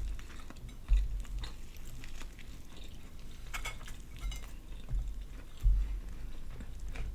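Chewing and eating of a fried chicken and glazed donut sandwich: scattered wet mouth clicks and smacks, with a few dull low thumps, the loudest about a second in and near six seconds.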